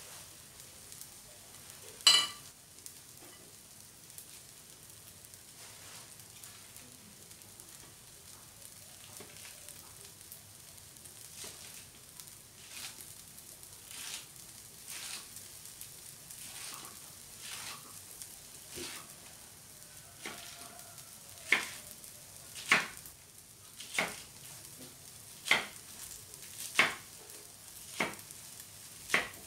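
Chopped chilies, shallots, garlic and spring onion sizzling softly in oil in a nonstick frying pan, with sharp crackles from the pan: one loud crackle about two seconds in and a run of them, about one a second, in the last third.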